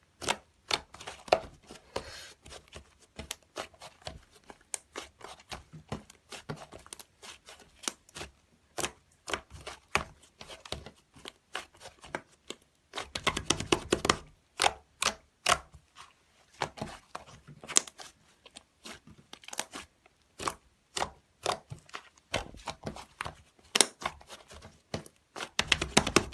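Close, rapid crackling and tearing handling noises made of many sharp clicks, with a denser, louder stretch about halfway through and another near the end.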